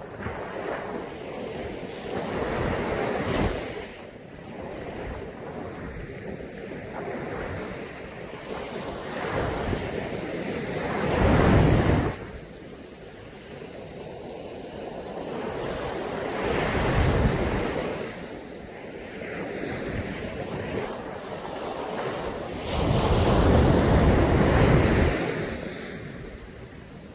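Sea surf: waves breaking on the shore in four rising and falling surges a few seconds apart, one of them cutting off sharply about twelve seconds in.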